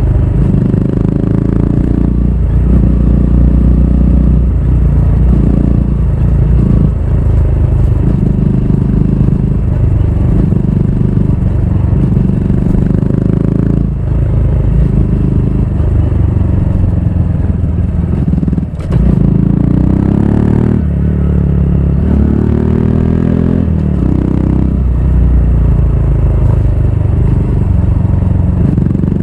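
Honda Grom's 125 cc single-cylinder engine running through a Yoshimura full exhaust system while riding, its pitch rising and falling with the throttle. About two-thirds of the way through it briefly drops off, then rises in pitch through several strong sweeps.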